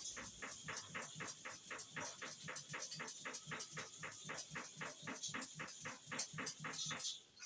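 Hair-clipper blade being rubbed back and forth by hand against an abrasive sharpening surface: quick, even scraping strokes about four a second, which stop near the end.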